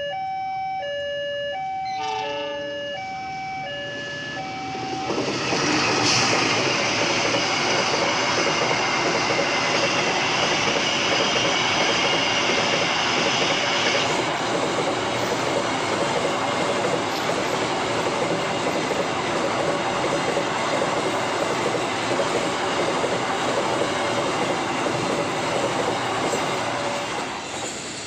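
Level crossing warning alarm repeating two alternating electronic tones, which stops about five seconds in. A train then passes close by with a loud steady rush of wheels on rails for about twenty seconds, easing off near the end.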